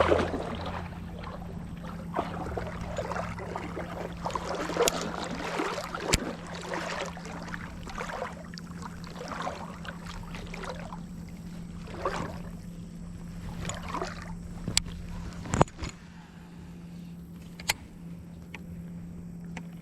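Boat motor running with a steady low hum, over irregular water sounds and a few sharp clicks.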